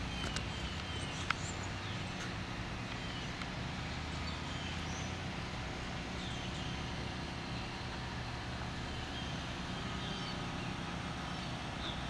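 Steady low outdoor rumble, with short high chirps recurring every second or so and a single sharp click about a second in.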